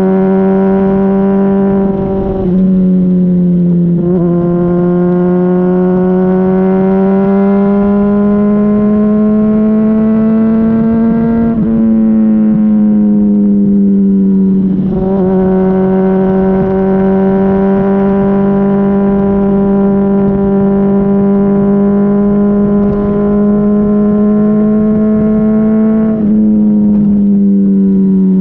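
Honda CBR600RR inline-four engine running through a Yoshimura RS-5 exhaust while riding, heard from right over the muffler. The engine note climbs slowly and steadily, with a few sudden drops in pitch along the way, about five in all.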